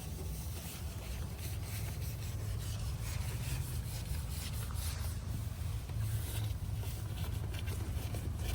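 Irregular rubbing strokes by hand on a plastic headlight lens, over a steady low rumble.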